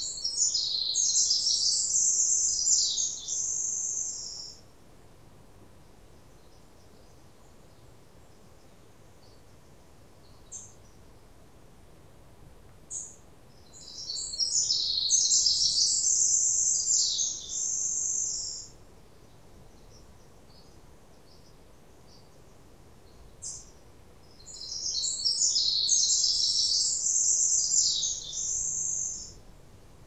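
A songbird singing the same high, rapid song phrase three times, each lasting about four seconds, with about ten seconds between them and a few faint short chirps in the gaps.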